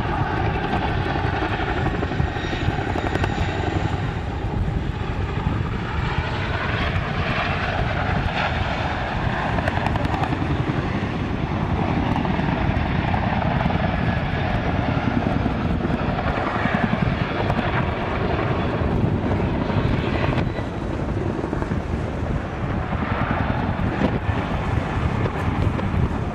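Aircraft engine noise from a flying display: a steady, continuous sound with faint tones that slowly shift in pitch as the aircraft moves.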